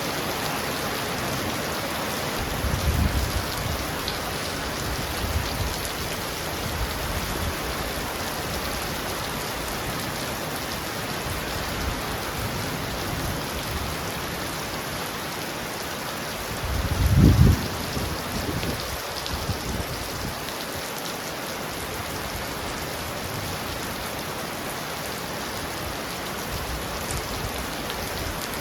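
Heavy rain falling steadily on a roof, with low rumbles of thunder about three seconds in and again, louder, around seventeen seconds in.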